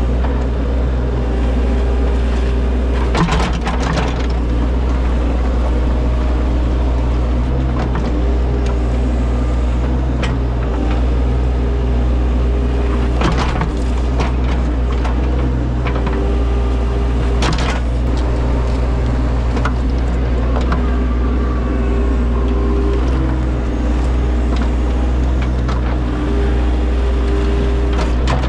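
A compact earthmoving machine's engine running steadily under load, with a whine that shifts pitch. Sharp knocks and cracks of the bucket striking soil and rock come now and then during digging.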